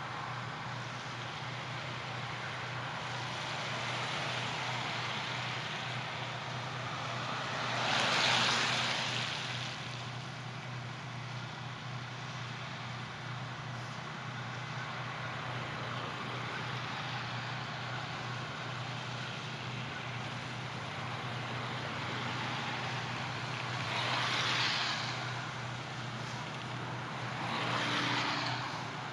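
Road traffic at an intersection: a steady hum of traffic with cars passing, swelling and fading about 8 seconds in, around 24 seconds and again near the end.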